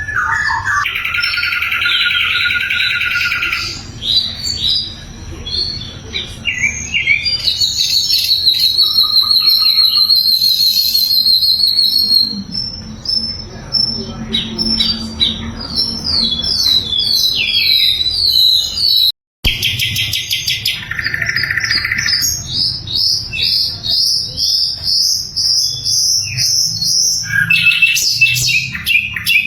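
Sikatan londo (grey-headed canary-flycatcher) singing loudly and without pause: varied whistled phrases, quick trills and a long high steady whistle, broken once for an instant about two-thirds of the way through.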